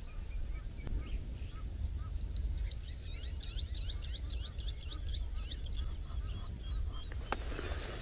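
Birds calling at the water: a quick series of high, downward-sliding notes from about two seconds in, with fainter calls around it. A low steady rumble runs underneath, and there is a sharp click near the end.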